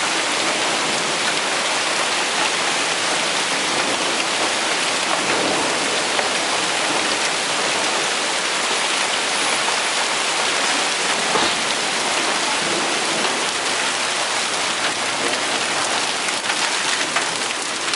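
A hailstorm with hail and heavy rain pelting down: a dense, steady hiss scattered with many small sharp ticks of hailstones striking, which come thicker near the end.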